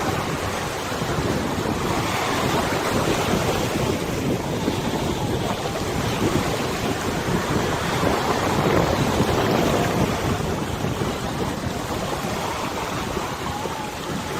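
Wind buffeting the microphone over the rushing and splashing of river water, a steady noise that swells and eases in gusts.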